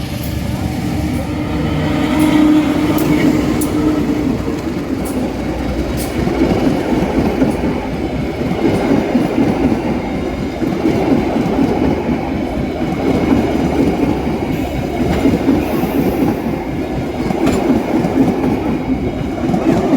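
Train rolling past close by: a steady, loud rumble of wheels on the rails, with a held engine tone in the first few seconds.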